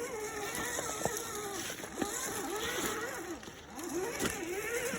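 Electric motor and gear drivetrain of an RC crawler truck whining, the pitch rising and dipping quickly with the throttle, with a few sharp knocks.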